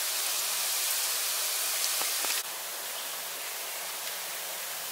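Chopped garlic, onion, red chili and carrot sizzling in hot oil in a nonstick frying pan: a steady hiss that drops abruptly to a slightly lower level about halfway through.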